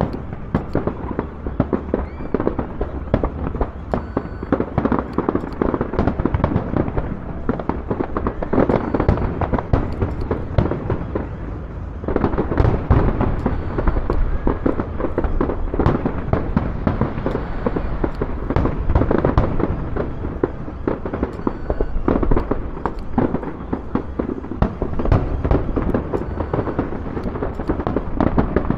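Aerial firework display going off in a dense, unbroken barrage of bangs and crackles, many bursts overlapping each second with no pause.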